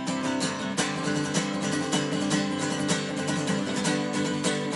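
Acoustic guitar strummed in a steady, even rhythm, with no voice over it.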